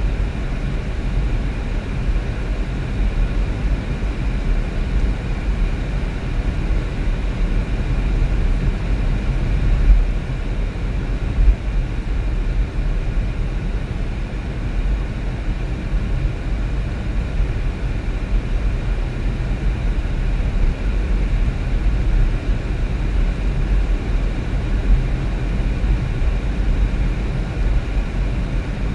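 Steady low rumble of a car driving: road and engine noise, with two brief small bumps about ten and eleven seconds in.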